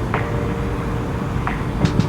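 Strong wind buffeting the microphone as a steady low rumble, under soft background music with a held note and a couple of plucked notes.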